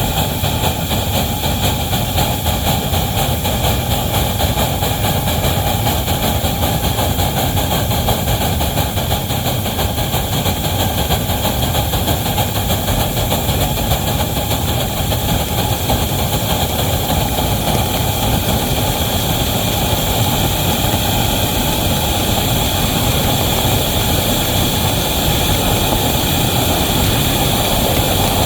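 A heavy train running with a steady, continuous mechanical rumble.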